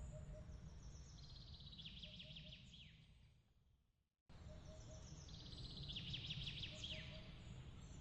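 Looped ambience track: soft bird-like chirping trills with quick downward-sweeping notes over a steady low rumble. It fades out to silence about four seconds in, then cuts back in abruptly and the same chirps repeat.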